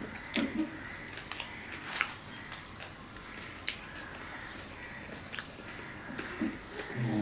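Close-up eating sounds: chewing tandoor roti and mutton curry, with sharp wet mouth clicks every second or so and soft tearing of the roti by hand. A short low hum comes near the end.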